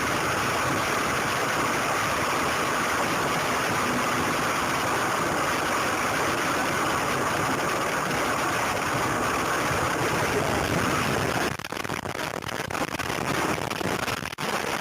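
Steady road and engine noise of a moving car recorded by a dashcam. About eleven seconds in it changes to a choppier, uneven noise.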